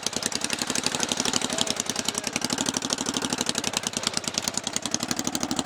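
Kohler 20 hp V-twin engine of a lifted Craftsman lawn tractor running steadily with rapid, even exhaust pulses, driving the tractor through deep mud.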